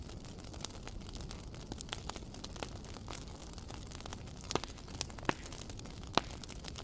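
Fireplace fire crackling: a steady low rumble and hiss with irregular sharp pops and snaps, the loudest three in the latter half.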